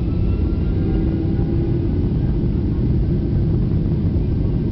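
Boeing 757 jet engines running at high power during takeoff, heard inside the passenger cabin: a steady, loud rumble with a faint whine slowly rising in pitch.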